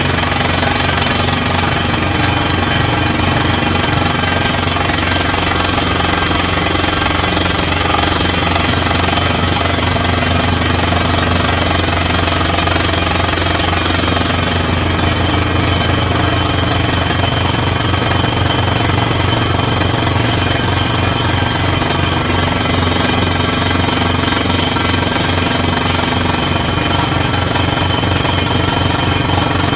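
Borewell drilling rig running steadily, a fast continuous hammering over a constant engine drone.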